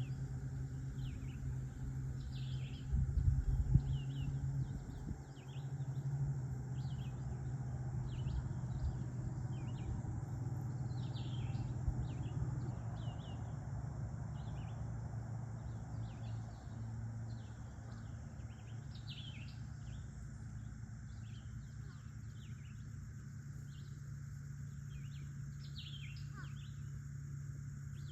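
Small birds chirping throughout in many short, quick calls that sweep down in pitch, over a steady low rumble that briefly grows louder about three seconds in.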